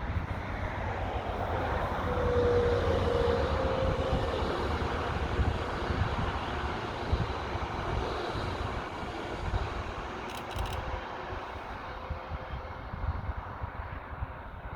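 A train passing by, rising to its loudest about two to four seconds in and then slowly fading, with wind buffeting the microphone.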